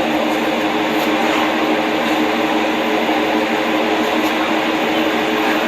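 1996 Chevy truck's straight-piped exhaust, the engine running at a steady speed with a constant, unchanging drone.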